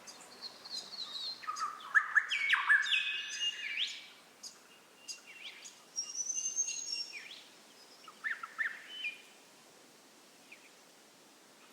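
Songbirds singing and chirping in quick runs of whistled notes, busiest in the first few seconds, then sparser, dying away about two-thirds through to a faint hiss.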